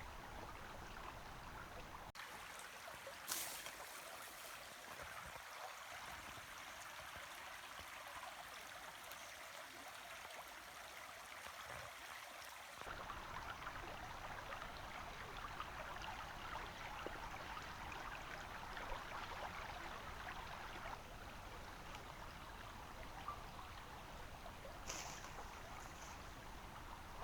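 Small mountain stream running, a steady rush of water whose character shifts abruptly twice, about two seconds in and about halfway through. A brief sharp sound comes a few seconds in and another near the end.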